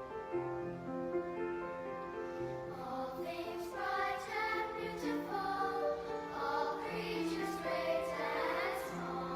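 A choir sings a gospel hymn over keyboard accompaniment. The first three seconds are held accompaniment chords, and the voices come in about three seconds in.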